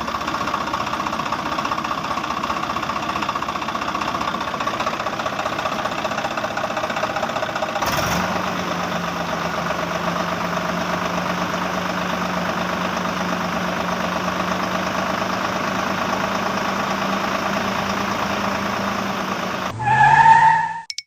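A small motor running steadily with a dense rattling whir, with a break about 8 seconds in after which a low steady hum joins it. Near the end, a short loud sound rises in pitch.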